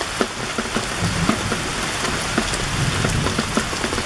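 Heavy rain pouring down, a steady hiss dotted with many sharp drop hits as it pelts the surface of a pool of water.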